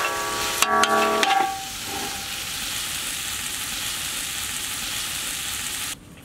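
Boneless chicken pieces frying in a large wok, with a steady sizzle. In the first second or so a metal utensil stirring the chicken scrapes and rings against the pan. The sizzle cuts off suddenly near the end.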